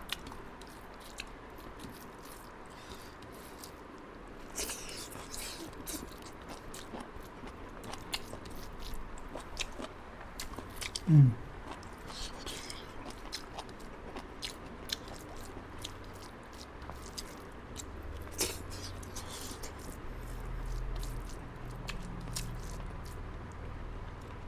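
Close-up chewing and biting with many small wet clicks and smacks as a person eats chicken liver and gizzard curry with rice. About eleven seconds in there is a short vocal sound that falls in pitch.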